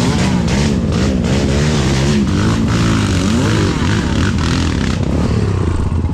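Nissan 720 pickup truck's engine revving up and down unevenly as it crawls over a rough off-road trail, with knocks and rattles from the body and load.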